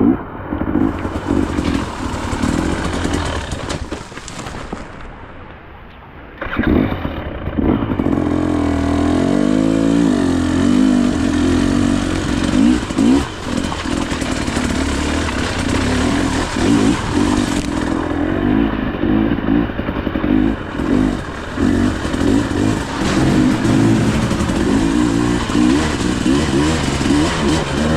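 KTM EXC 300's two-stroke engine running hard with the throttle opened and closed in quick surges. About four seconds in it drops away for roughly two seconds, then comes back loud with a rev that rises and falls.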